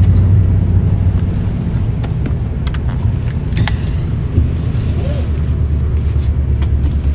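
Steady low rumble of engine and road noise, heard inside a car's cabin while driving.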